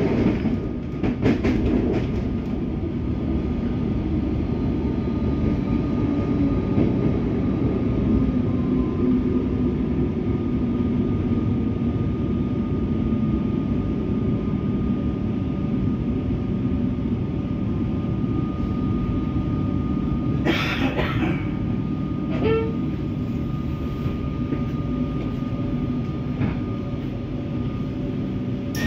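Cabin sound of a Comeng electric suburban train running and coming in to a stop at a station: a steady rumble of wheels and motors with faint steady tones through it. About two-thirds of the way in there is a short burst of noise, followed a couple of seconds later by a brief squeak.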